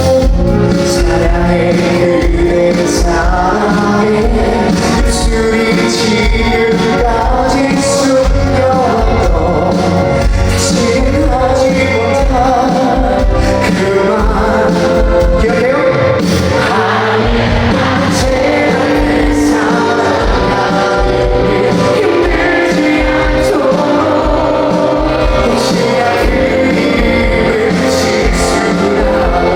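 A pop-rock band playing live, with a male lead vocal singing over the band and a steady drum beat.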